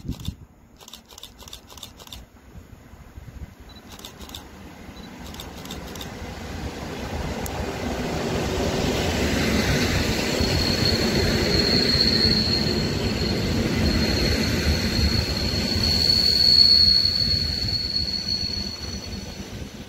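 EN57 electric multiple unit arriving at a station platform: its running noise builds from faint to loud as it passes and then fades. Through the second half a steady high-pitched squeal, typical of its brakes as it slows for the stop, rises over the rumble.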